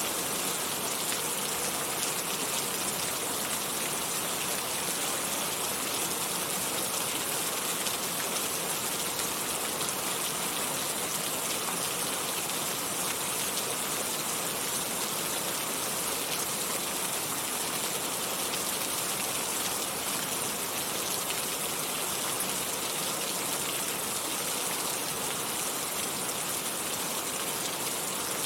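Steady rainfall, an even hiss of drops on a surface with no breaks or changes.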